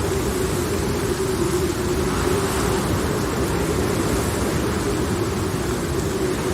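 Steady storm ambience: a continuous low rumble with a wavering drone held at one pitch and a faint hiss above it, without sudden claps.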